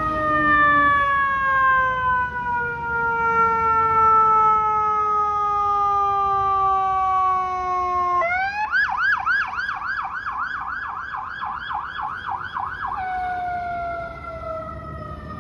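Fire engine sirens. A long siren wail falls slowly in pitch; about eight seconds in, a Federal Signal PA300 electronic siren cuts in with its yelp, rapid up-and-down sweeps about four a second. The yelp lasts about five seconds, then gives way to the falling wail again.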